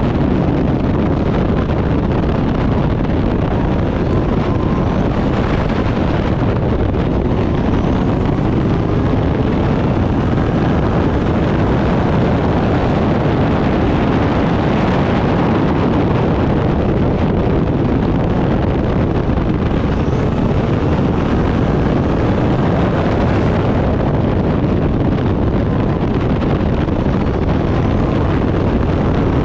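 Turbocharged Backdraft Cobra race car's engine running at racing speed, steady and loud, under heavy wind noise on the microphone.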